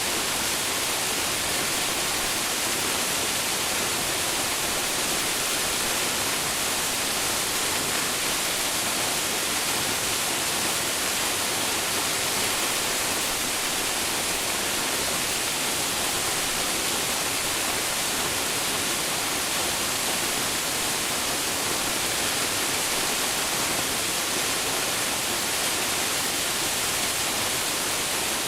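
Waterfall crashing into its plunge pool: a steady, unbroken rush of falling water, strong in the hiss and even in loudness throughout.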